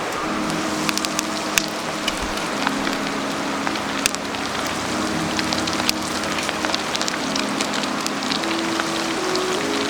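Campfire cooking: a steady sizzling hiss scattered with sharp crackles and pops.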